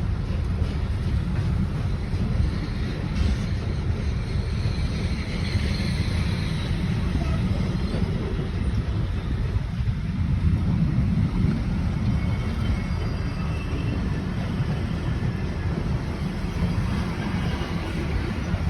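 VSM train 41 241 running past with a steady low rumble.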